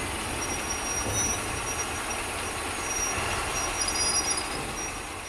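Train moving through a rail yard: a steady rolling rumble with faint high wheel squeals coming and going, starting to fade near the end.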